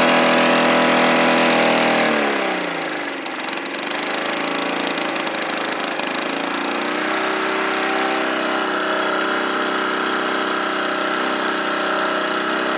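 Lawn mower engine running at high revs; about two seconds in the revs fall away sharply, it runs unevenly for a few seconds, then settles to a steady lower speed.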